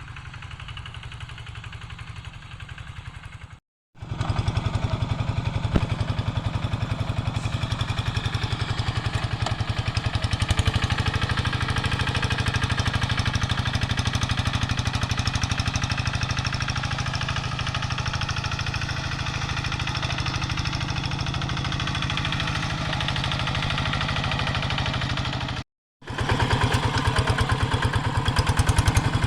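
Diesel engine of a Quick G3000 two-wheel hand tractor running steadily at working speed, with a fast, even chugging beat. The sound drops out completely for a moment about four seconds in and again near the end, louder after the first break.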